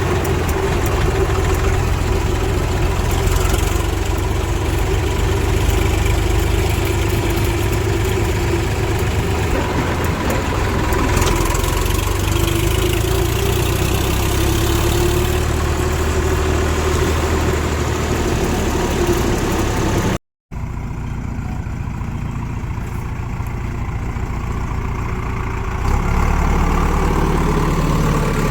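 Heavy diesel machinery engine running steadily with a low rumble. An abrupt cut about two-thirds of the way through switches to a quieter engine sound, which grows louder near the end.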